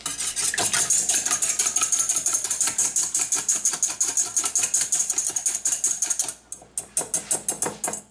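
Eggs being beaten in a bowl: fast, even clicking of the utensil against the bowl, about nine strokes a second, stopping briefly near the end before a last short run.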